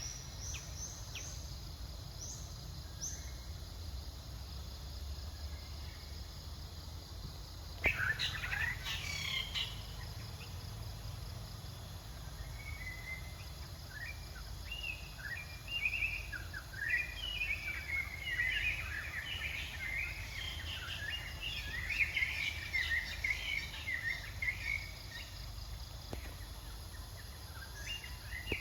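Steady low outdoor background noise with short high chirping animal calls, a sudden burst of rising chirps about eight seconds in, then a long run of chirps through the second half.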